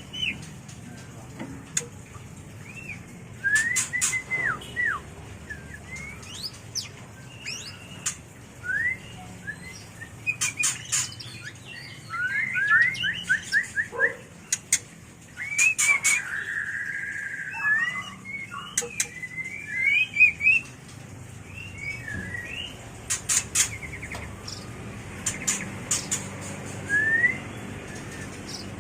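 White-rumped shama giving its mating call: a varied run of short whistled phrases that glide up and down, broken by sharp clicking ticks.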